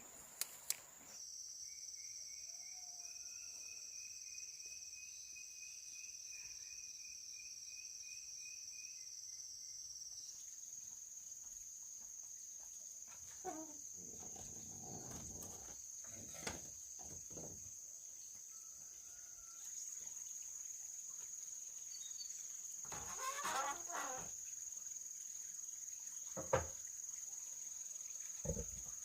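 Quiet rural ambience: a steady high-pitched insect drone, with a rapid repeated chirping for several seconds near the start. A few faint knocks and short animal calls come and go.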